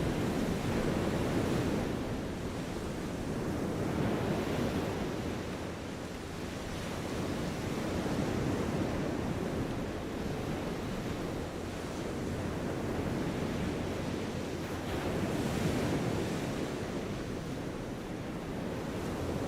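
Outdoor ambience by the Manhattan Bridge: a steady rushing noise that swells and eases every few seconds, with no single event standing out.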